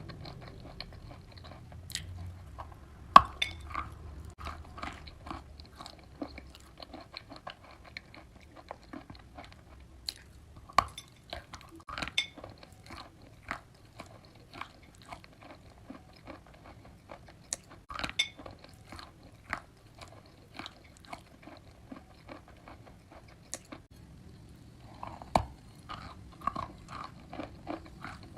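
Close-up crunching and chewing of wet chalk: sharp bites crack through it every several seconds, the loudest about three seconds in, with softer wet chewing clicks between.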